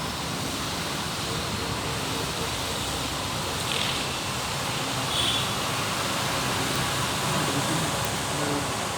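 Heavy rain hissing steadily, with a vehicle engine running low underneath. Two brief high-pitched tones sound about four and five seconds in.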